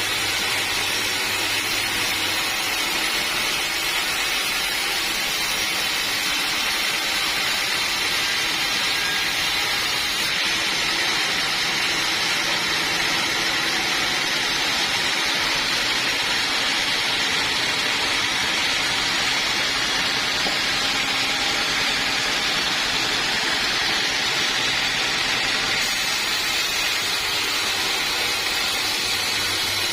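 Sawmill saw running steadily, a constant loud noise with no breaks.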